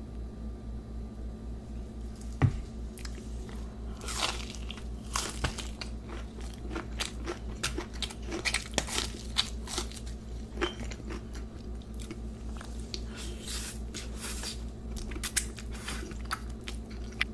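Close-miked eating of crispy fried chicken: loud crunchy bites and chewing, coming thick and fast from about four seconds in, over a steady low hum. A single sharp knock sounds a couple of seconds in.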